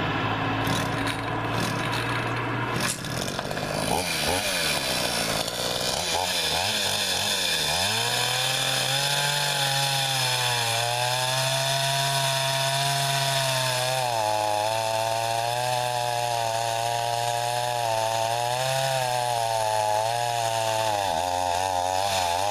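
Two-stroke gas chainsaw running and cutting through pecan wood, its engine pitch dipping and recovering repeatedly under load. Near the end it falters as it runs out of gas.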